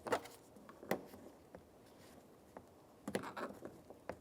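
Faint, scattered clicks and scrapes of a small screwdriver and plastic door trim parts being handled: a couple of single clicks, then a quick cluster of clicks and scraping about three seconds in.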